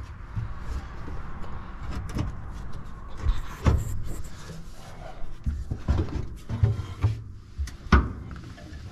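Scattered knocks and clunks of metal parts and tools being handled on a combine harvester during repair work, with louder thuds a little before four seconds in and at about eight seconds.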